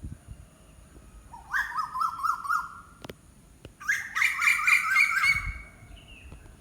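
A bird calling twice, each call a quick run of repeated rising-and-falling notes lasting a little over a second, the second call louder.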